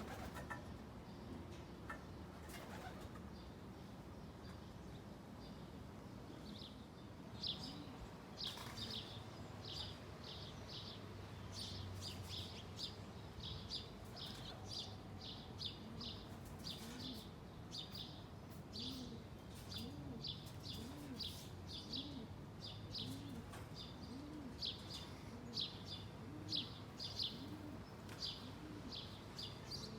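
Birds calling: clusters of quick, high chirps repeat from about seven seconds in, and from about halfway a low coo rises and falls about once a second, typical of a pigeon or dove cooing.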